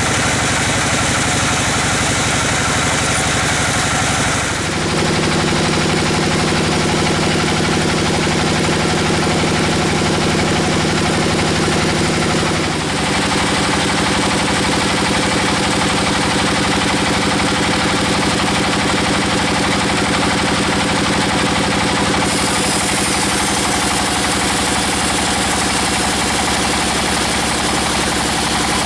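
Engine-driven sawmill bandsaw running steadily with a continuous mechanical hum. The pitch of the hum shifts abruptly about five seconds in and again about thirteen seconds in.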